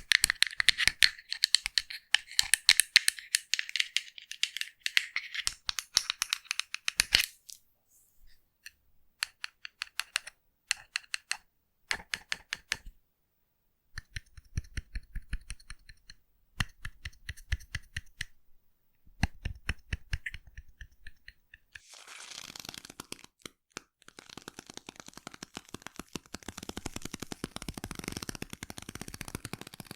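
Foam crackling and popping in fine, quick clicks. It is dense for the first seven seconds, thins to scattered clicks, then turns to a thicker, fuller crackle from about twenty-two seconds in.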